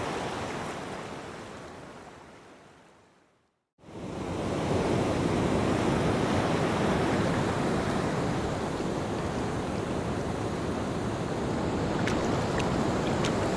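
Ocean surf washing on a beach, a steady rushing noise. It fades out to silence about three seconds in and swells back about a second later.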